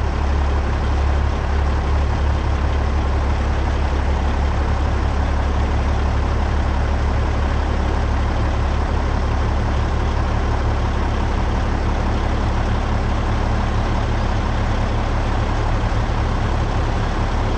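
Loaded dump truck driving, its diesel engine running with a steady low drone.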